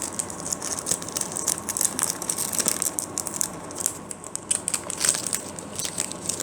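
Foil booster-pack wrapper of a Pokémon trading card pack crinkling and crackling as it is worked open by hand, a dense run of irregular crackles.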